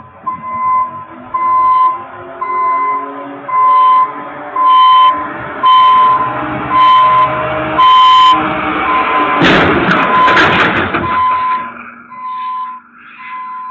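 An electronic beeper sounding a steady series of short, high beeps, a little under two a second, like a vehicle or dash-cam warning alarm. A loud, harsh noisy burst cuts in about nine and a half seconds in and lasts about a second and a half.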